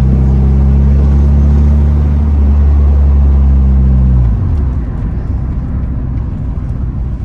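Honda Civic Type R's K24 four-cylinder engine running at a steady speed under way, a low drone that drops off sharply about four seconds in, leaving a lower road rumble.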